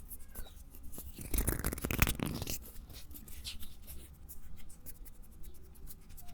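Close-miked ASMR scratching and tapping: a run of light clicks and scratches, busiest for about a second around a second and a half in.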